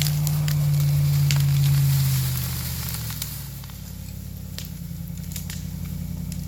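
Ford F-150 pickup engine revving hard under load as it pulls a tree out, with scattered cracking and snapping of branches and wood. The engine eases off about three and a half seconds in, and the crackling goes on.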